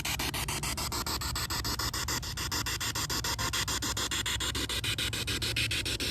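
Spirit box sweeping through radio stations: hissing static chopped into a fast, even pulse of about seven a second.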